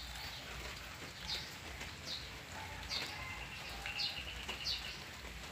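Small birds chirping: short, high, downward-sliding chirps repeat about once a second, with a brief buzzy trill twice in the middle.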